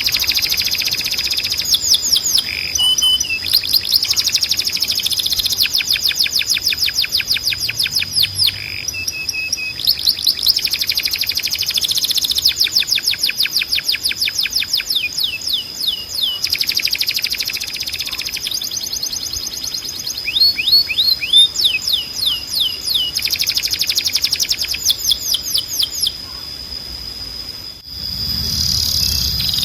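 Canary singing: a run of fast trilled rolls, each a quick series of repeated high notes lasting a few seconds, over a steady high tone. Near the end the song thins out and a low hum comes in.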